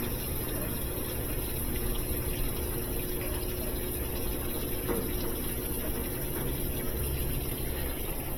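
GE top-load washing machine filling: water running steadily into the tub through the inlet valve at the start of a wash cycle. A single light click about five seconds in.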